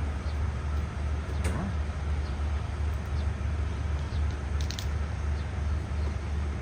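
A State Railway of Thailand diesel train standing at the platform with its engines idling, giving a steady low hum. A couple of faint clicks or knocks sound about one and a half and almost five seconds in.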